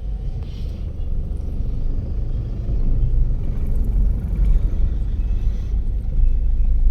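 A vehicle's engine running with a steady low rumble, growing a little louder about three seconds in.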